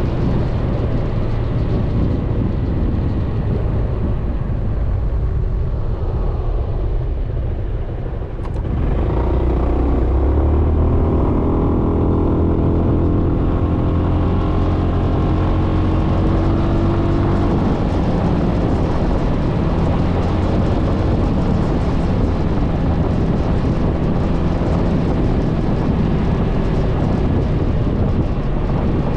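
Suzuki Burgman 400 scooter's engine running under way with road noise. It eases off briefly, then pulls away again about nine seconds in, the engine getting louder and rising in pitch.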